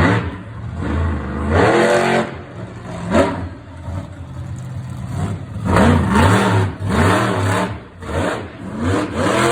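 Monster truck engine revving hard in repeated bursts, its pitch climbing and dropping over and over, with a run of quick rev blips in the second half.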